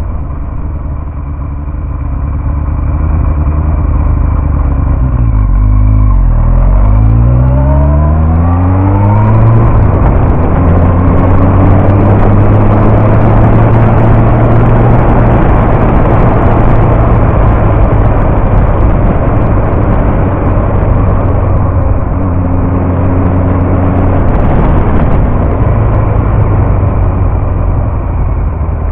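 Yamaha R1 sport bike's inline-four engine heard from a camera mounted on the bike. About six seconds in the engine note climbs steeply as the bike accelerates, then it runs at steady speed under loud wind rush, easing off near the end.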